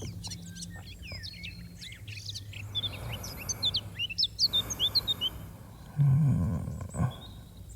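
Small songbirds chirping in quick, short high notes over a soft outdoor hiss, busiest in the middle of the stretch. About six seconds in, a brief low hum from a man's voice is the loudest sound.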